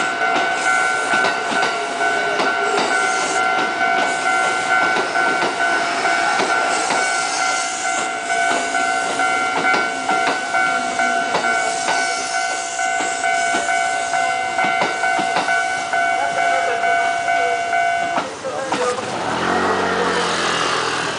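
A train running on rails, with a steady noise and scattered clicks of wheels over the track under a steady high ringing tone. Both cut off abruptly about 18 seconds in, and a different sound with shifting pitched tones, like a voice, follows.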